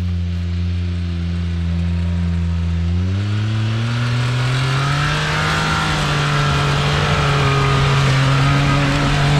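Suzuki Jimny JB23's small turbocharged three-cylinder engine under load on a loose gravel hill climb: it holds steady revs, rises in pitch about three seconds in as the driver gives it more throttle, then holds the higher revs as the Jimny comes up the slope.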